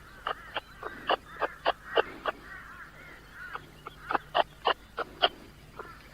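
Birds calling: a run of short, sharp calls, about three a second, with softer chattering between them and a brief pause near the middle.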